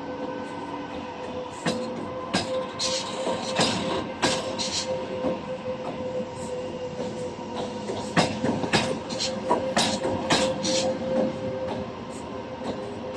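Passenger train passing: wheels clacking irregularly over rail joints, with a steady whine running underneath.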